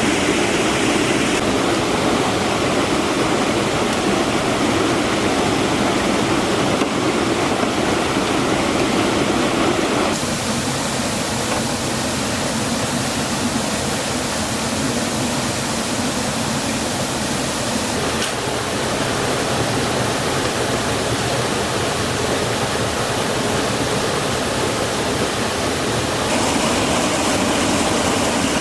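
Fast-flowing stream water rushing over rocks as a steady wash of noise. The tone shifts abruptly a few times, about a second in, about ten seconds in and near the end.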